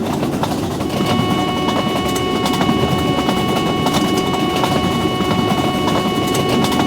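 Train passing close at speed: a steady rumble and rapid clatter of wheels on the rails. A set of steady high tones joins about a second in and holds.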